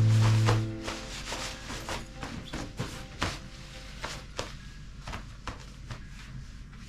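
Footsteps crunching through snow, about two steps a second. A held music chord runs through the first second and stops.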